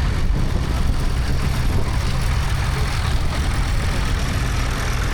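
Vintage vehicle engine running at low speed, a steady low rumble.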